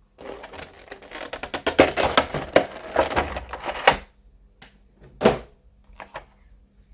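Packaging being opened and handled: a dense run of crinkling, rustling and clicking for about four seconds, then a single sharp knock a little after five seconds.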